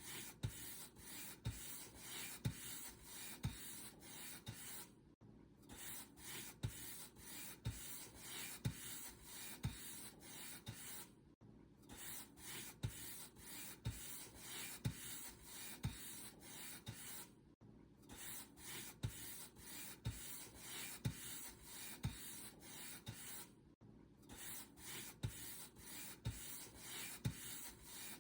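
Paintbrush bristles stroking across a surface in brisk, repeated strokes, about two a second, with a brief pause roughly every six seconds.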